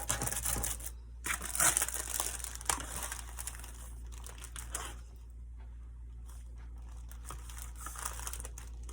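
Crinkling and rustling from crafting materials being handled, busiest over the first five seconds, then quieter with a few light clicks and taps.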